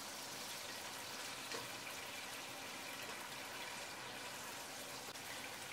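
Cubed smoked pancetta frying in olive oil in a pot: a faint, steady sizzle as the fat renders.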